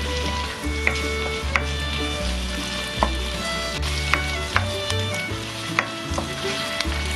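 Sliced green onions and garlic sizzling as they stir-fry in oil in a pan while a spatula turns them, with scattered sharp ticks through the frying.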